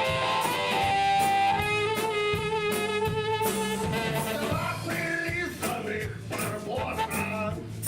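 Live band music, an instrumental stretch of a song with drum kit and guitar under a sustained melody line.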